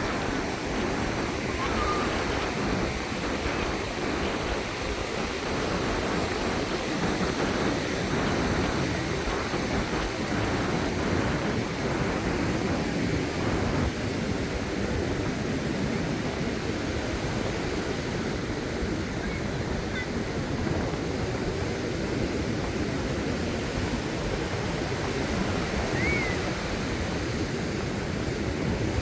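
Small waves washing steadily onto a sandy beach, with a few faint short chirps now and then.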